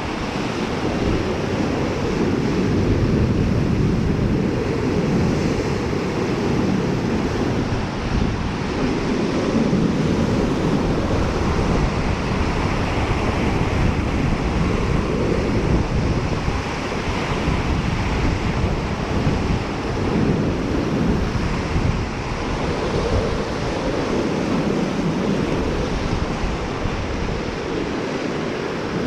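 Waves washing onto a shore in repeated surges every few seconds, with wind buffeting the microphone.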